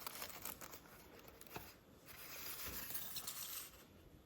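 Faint rustling and small clicks of packaging being handled, with a longer stretch of rustle in the middle, as a boxed diecast model is unpacked.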